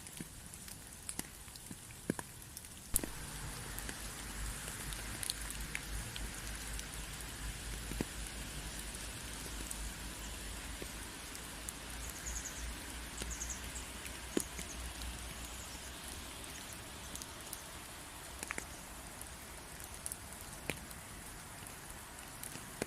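Steady rain with scattered single drops ticking sharply. About three seconds in it grows louder and a low rumble joins underneath, dying away about two-thirds of the way through.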